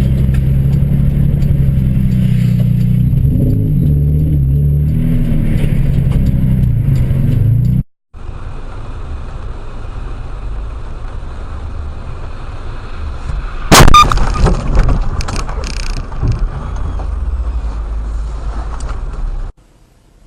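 A car's engine and road noise heard from inside a vehicle, the engine hum shifting in pitch. After a cut, a second recording of road noise has a sudden loud impact about two-thirds of the way through, followed by a few smaller clattering knocks: a traffic collision.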